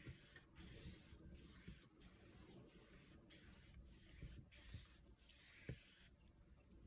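Faint swishing of a paintbrush sweeping a wet watercolour wash across paper, in repeated strokes with short breaks between them, about one every two-thirds of a second, stopping about six seconds in.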